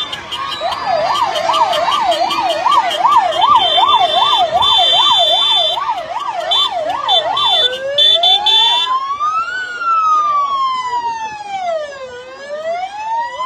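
Motorcade escort vehicle's siren. It sounds a fast yelp of about three sweeps a second, then switches about eight seconds in to a slow wail that rises and falls every two to three seconds.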